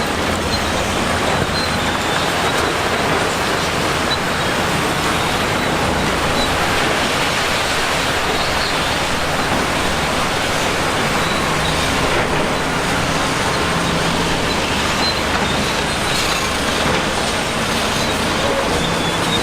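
Heavy construction machinery running steadily: a continuous engine drone under a thick, even hiss of mechanical noise, with no clear change in revs.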